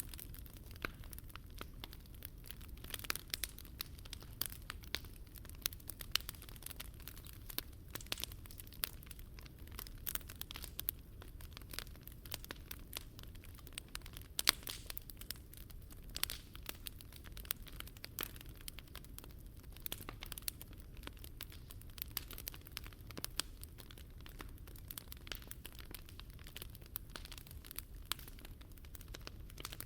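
Wood fire crackling in a Picogrill 398 fire pit: a dense, irregular run of sharp crackles and small pops over a low steady rumble, with one louder pop about halfway through.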